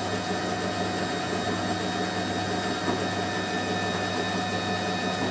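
Hoover Electron 1100 washing machine on its spin cycle, drum and motor running at a steady lower spin speed, about 500 rpm: an even whirring hum with a few constant tones that does not rise or fall.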